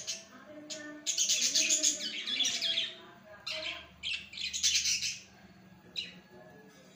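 Small birds chirping in several quick, chattering bursts, with a last short chirp about six seconds in.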